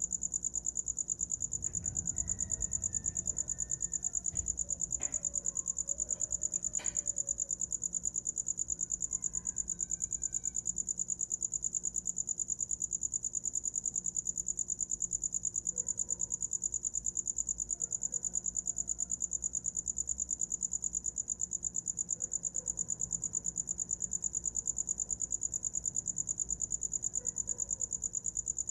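A cricket chirping on and on in a steady, high-pitched trill of rapid pulses, with no breaks.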